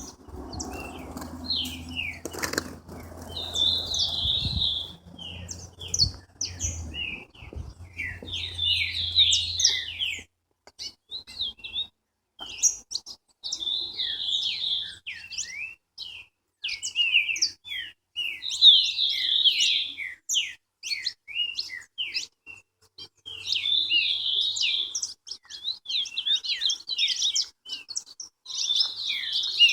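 A breeder's songbird singing, repeating a phrase about every five seconds, each a dense run of rapid chirping notes. A low steady hum stops about ten seconds in, and a single knock comes about two and a half seconds in.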